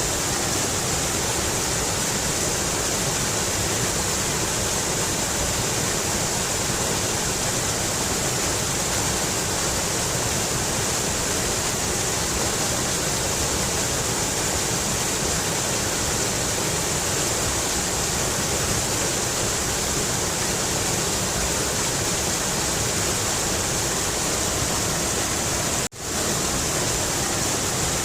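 Mountain river water rushing steadily, a constant bright hiss with no change in strength, broken once near the end by a momentary dropout.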